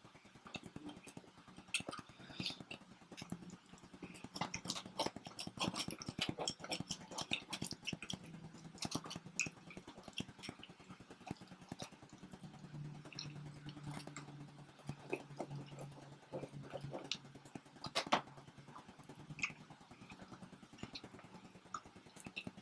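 Close-up chewing and biting of homemade pizza, with irregular wet smacks and crisp clicks; one sharper click about eighteen seconds in is the loudest.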